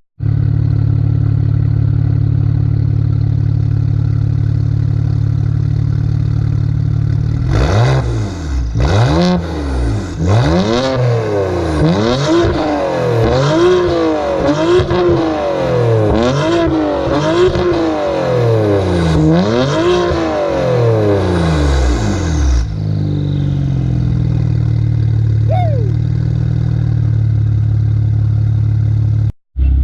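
BMW 335i's N54 twin-turbo inline-six through a VRSF straight-pipe race exhaust: idling steadily, then revved repeatedly in quick blips for about fifteen seconds with pops and crackles as the revs drop, then settling back to idle.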